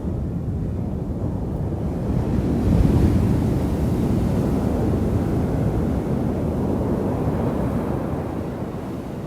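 Pacific surf at high tide, a wave breaking and washing in with a swell of rushing noise about three seconds in, then slowly receding; wind buffets the microphone throughout.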